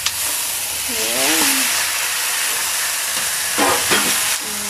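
Raw duck meat tipped into a wok of hot oil with sautéed garlic, onion and ginger, sizzling hard as it lands. A short clank as it starts, the sizzle builds over the first second, and a spatula clatters in the pan shortly before the sizzle drops away near the end.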